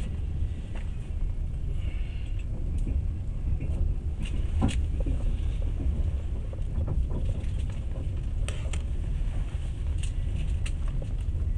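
Passenger train heard from inside the carriage while under way: a steady low rumble of wheels on the rails, with scattered sharp clicks and knocks, the loudest about halfway through.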